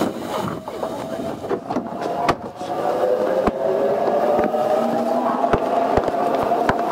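Tobu 20000-series commuter train running on the Hibiya Line subway, heard from inside the car: steady wheel-and-rail noise with a whine that rises slowly in pitch from about halfway through, and scattered sharp clicks.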